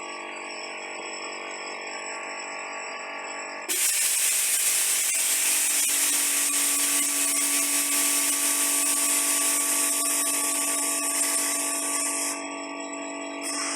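Compressed-air spray gun hissing as ceramic coating paint is sprayed onto engine parts. The hiss starts suddenly about four seconds in, cuts out near the end and starts again. A steady multi-tone hum runs underneath the whole time.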